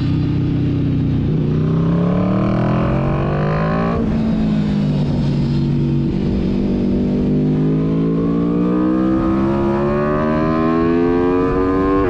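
Sport motorcycle engine heard onboard at track speed, revs rising hard, then dropping abruptly on an upshift about four seconds in, then climbing again through the second half, with steady wind rush over it.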